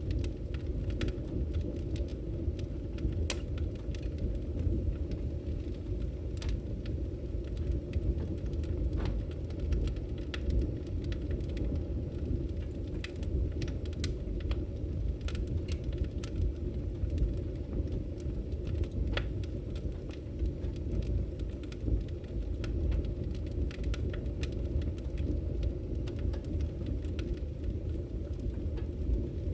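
Wood fire in a fireplace burning with a steady low roar and irregular sharp crackles and pops.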